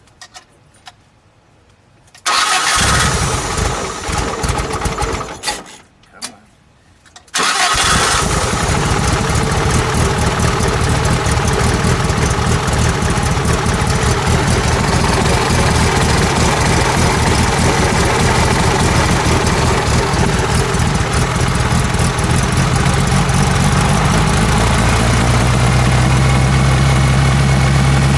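The Fiat Abarth 1000 OT Spider's rear-mounted inline four-cylinder engine, with Abarth upgrades, starts about two seconds in, runs a few seconds and stops. It is started again about seven seconds in and keeps running steadily.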